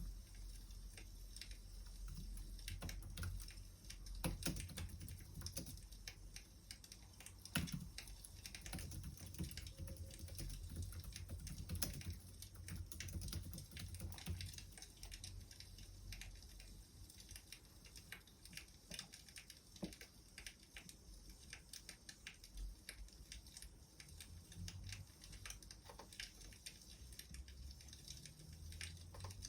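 Wood fire crackling, with irregular small pops and snaps over a low rumble.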